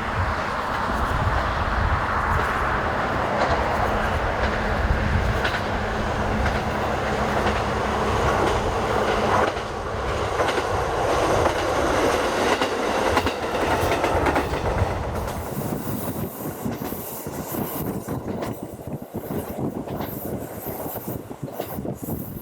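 Hanasaki Line diesel railcar running along the track, a steady rumble of wheels on the rails. After about fifteen seconds the low rumble drops away and the sound turns thinner and more uneven.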